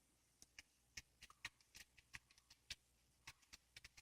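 Faint, irregular soft clicks and ticks from hands pinching and pressing raw sausage meat together; otherwise near silence.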